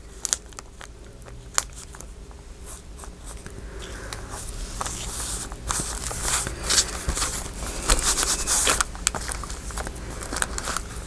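Paper being handled by hand: rustling and crinkling with many light taps and clicks, busiest in the middle stretch.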